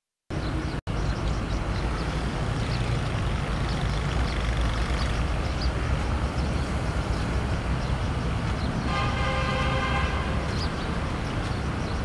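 Busy street traffic noise: a steady rumble of passing vehicles, with a vehicle horn sounding one held honk of just over a second about nine seconds in.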